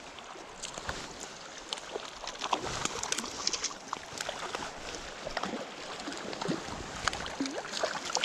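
Shallow river water running steadily, with frequent small splashes and gurgles throughout.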